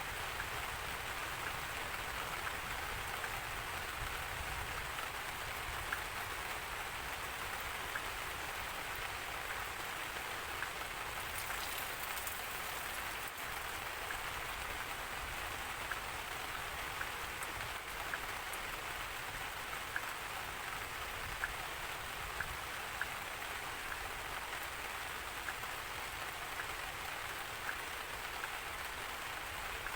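Steady rain falling, with scattered single drops ticking sharply over the even hiss.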